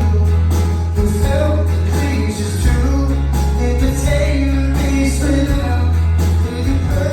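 Live rock band playing loud, with long held bass notes under a steady drum beat and a faint sung melody.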